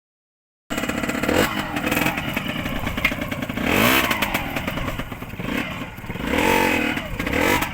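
Motorcycle engine running, revved up and back down twice, about halfway through and again near the end.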